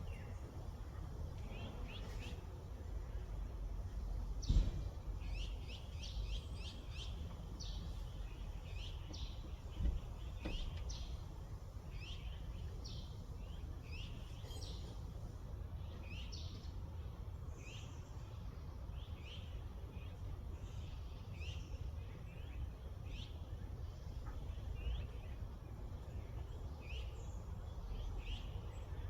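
Small songbirds chirping over and over, each chirp a quick high note sweeping downward, over a steady low rumble like wind. A brief thump sounds about four and a half seconds in and another near ten seconds.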